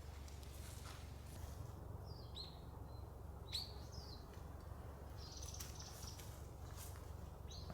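Wild birds chirping faintly: a few short, scattered calls, the clearest one about halfway through, over a steady low background rumble.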